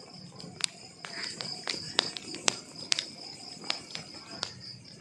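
Wood fire crackling: irregular sharp pops and snaps from burning logs, the loudest about two seconds in, over a soft low rustle of flames. A faint steady high-pitched tone runs underneath.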